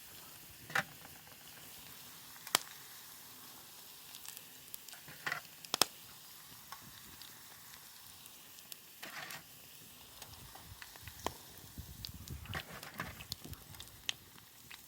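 Wood campfire crackling: a steady low hiss broken by irregular sharp pops and snaps, a few of them loud.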